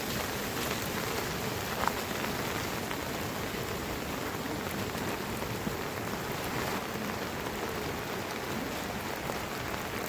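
Steady rain falling, with an occasional louder drop standing out.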